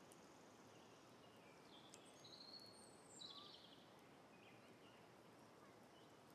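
Faint birdsong: a few short chirps and trills, bunched about two to three and a half seconds in, over a soft steady background hiss.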